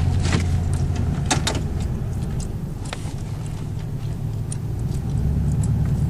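2000 Ford Explorer's 5.0-litre V8 running under way, a steady low engine hum heard from inside the cabin, with a few sharp clicks.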